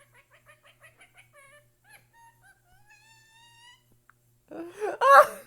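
A parrot chirping and whistling faintly, first a quick run of short chirps, then a few longer whistled notes with one rising whistle. Near the end a person bursts into loud, high-pitched laughter.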